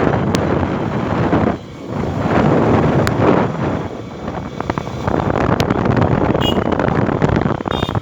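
Wind buffeting the microphone over the rumble of a motorcycle and road noise while riding, swelling and dipping. Two short high-pitched tones sound near the end.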